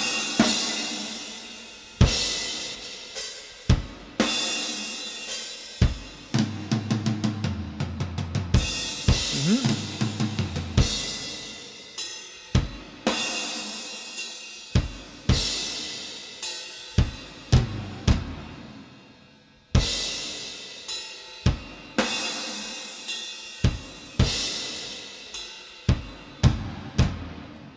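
Recorded drum kit in a slow, sparse doom-metal groove: separate kick and snare hits under long ringing cymbal crashes, with a fast run of tom hits stepping down in pitch in the middle.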